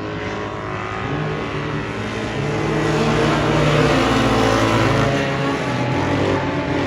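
Race car engine running hard under load. It gets louder about two and a half seconds in, and its note shifts again near five seconds.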